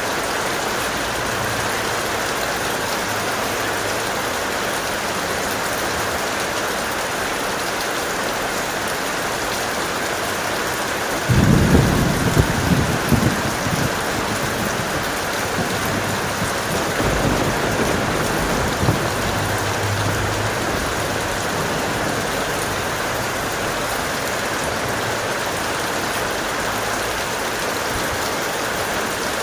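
Steady heavy rain with a thunderclap about eleven seconds in, rumbling and crackling for a few seconds, then a weaker roll of thunder a few seconds later.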